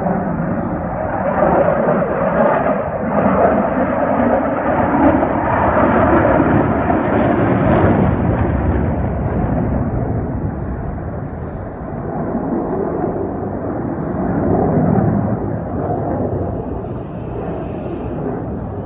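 Jet aircraft roaring past overhead. The noise swells for several seconds, eases, swells again, and then fades.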